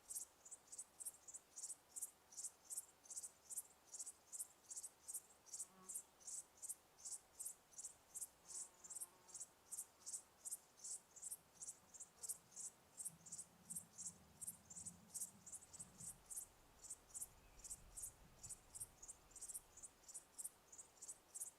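Crickets chirping in a steady, even rhythm, about three high-pitched chirps a second. A faint low rumble comes in partway through.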